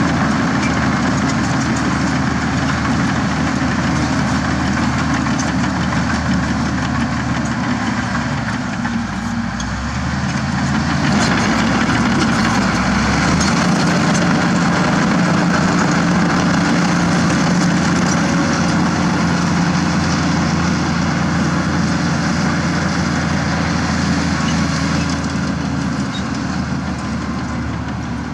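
Zoomlion ZD160-3 crawler bulldozer's Weichai diesel engine running steadily as the machine pushes dirt. Its note dips and then changes pitch about ten seconds in, and holds steady after that.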